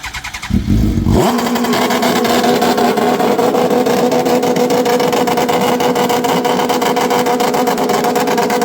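Suzuki GSX-R1000 inline-four motorcycle engine in a dwarf race car, revved up sharply about a second in and then held at high revs with a steady, loud, rapidly pulsing note.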